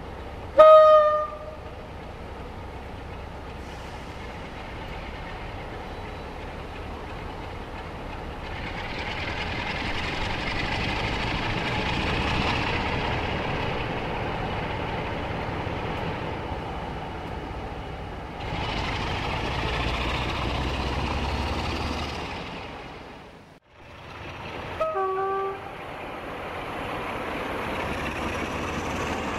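Class 47 diesel locomotive sound from an OO-scale model's sound system. A horn blast comes about half a second in, then the engine runs and rises in revs twice as the loco moves off. Near the end there is a second short two-note horn, high then low, after which the engine runs on steadily.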